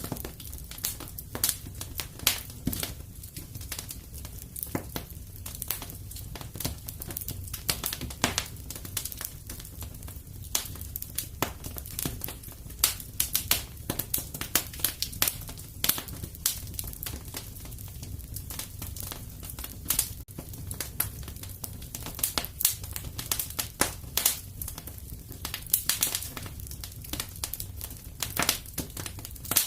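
Fireplace fire crackling: irregular sharp pops and snaps, several close together at times, over a steady low rumble.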